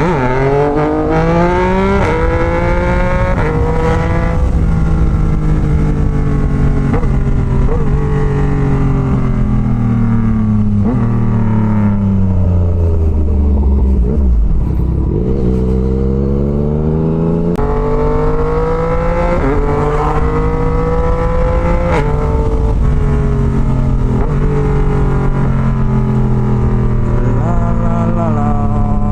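Yamaha MT-09's inline three-cylinder engine heard from the rider's seat. It pulls up through several gears at the start, slows down with short throttle blips on the downshifts, and runs low near idle around the middle. It then accelerates up through the gears again and slows once more near the end.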